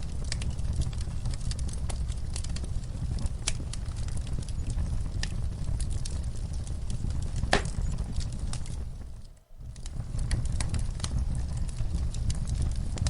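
Wood fire burning in a fireplace: a steady low rumble of flames with irregular sharp crackles and pops. The sound fades out briefly about nine and a half seconds in and then returns.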